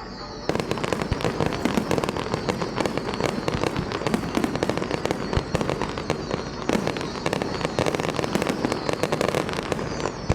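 Fireworks display in a dense, continuous barrage: rapid overlapping bangs and crackling with no gaps between them, setting in about half a second in.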